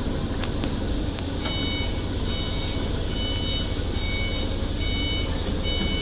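Steady low hum of machinery, with a repeating high electronic beep, a short tone of several pitches sounding about every 0.8 seconds, starting about one and a half seconds in.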